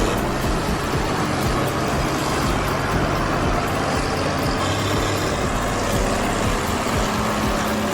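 Tractor engine running steadily, its low hum shifting slightly in pitch about halfway through.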